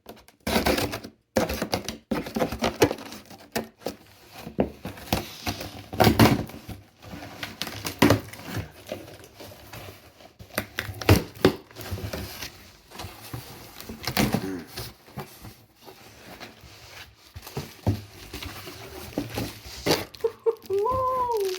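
A cardboard box and its packaging being opened and handled: irregular clicks, scrapes and rustles, with a few louder knocks about six, eight and eleven seconds in.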